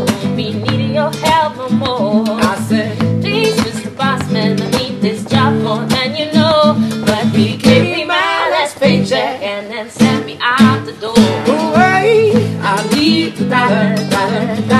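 Acoustic guitar strummed and picked in a steady groove while voices improvise without clear words, with sliding, ornamented vocal runs over the chords.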